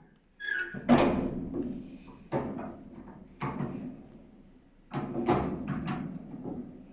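A series of sharp knocks and clanks, about six in all, each with a short ringing tail; the loudest comes about a second in.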